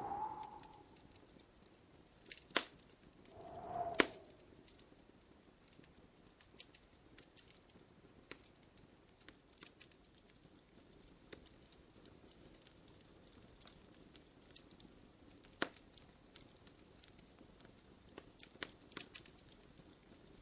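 Wood fire crackling in a fireplace, with scattered sharp pops; the loudest pops come about two and a half and four seconds in. At the start and again just before the big pop, a short low tone lasts about a second.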